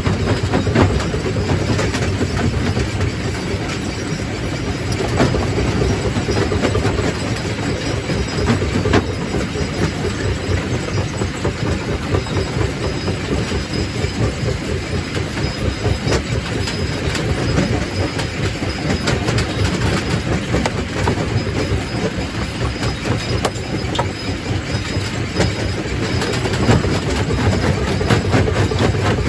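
Quarry primary rock crusher running: a steady heavy rumble with constant clatter and knocks as rock is broken and rattles through the machine.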